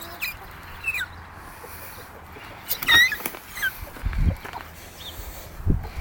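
Sick hen making short, high, falling squeaks as she breathes, about four of them, the loudest about three seconds in. A few low thumps come in the second half.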